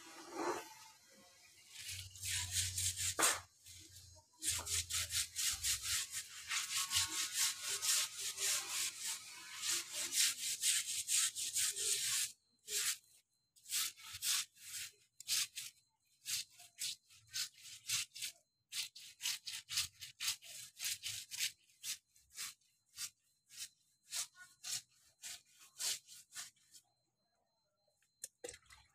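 Brisk scratchy rubbing strokes, a few each second, in a steady run that stops briefly about twelve seconds in and then goes on as separate strokes before falling quiet near the end.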